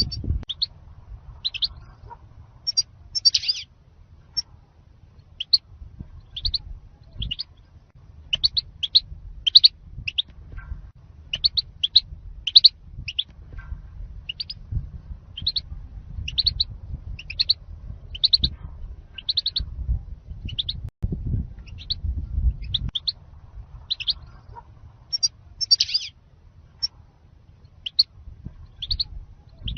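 European goldfinch calling: short, high chirps repeated about once or twice a second, over a low rumble.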